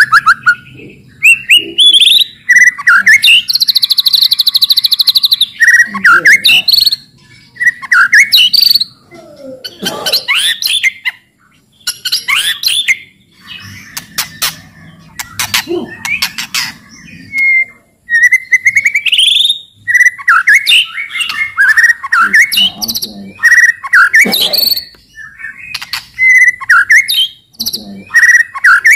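White-rumped shama (murai batu) singing loudly in quick, varied phrases of whistles, chirps and sweeping notes, with a harsh rattling buzz (cetrekan) about four seconds in.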